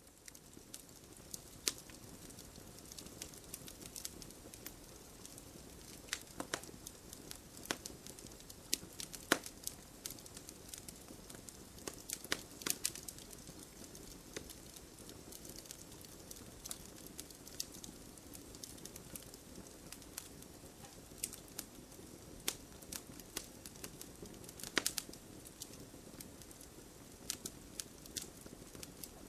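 Campfire burning: wood crackling over a steady low hiss, with irregular sharp pops and snaps, a few of them louder than the rest. It fades in over the first second.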